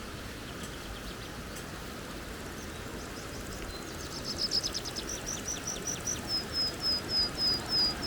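A songbird calls over the steady rush of a flowing creek: about four seconds in, a quick chatter gives way to a run of short, high, clear notes, about four a second, stepping slightly lower in pitch and louder than the water.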